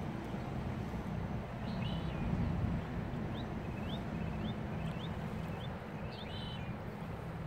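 Small birds calling across a wet meadow: a burst of clustered notes, then a quick run of about five short rising chirps, then another burst near the end. Under them runs a steady low rumble, the loudest part of the sound.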